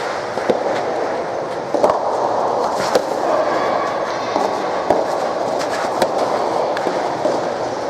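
Soft tennis rally: sharp pops of racket on rubber ball roughly once a second over a steady crowd murmur.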